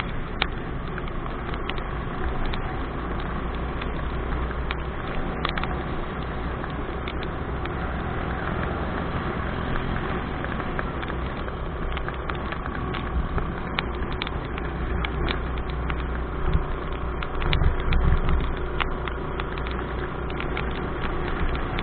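Motorcycle on the move: a steady engine rumble mixed with wind noise on the microphone, with scattered sharp ticks throughout. A few louder low surges come about three-quarters of the way through.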